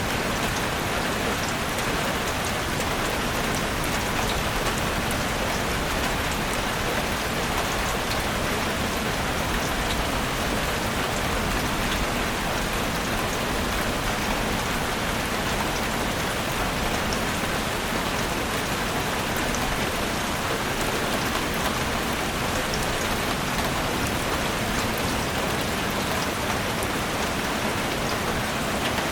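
Steady rain falling in a forest, an even hiss of rain with scattered individual drop ticks, unchanging throughout.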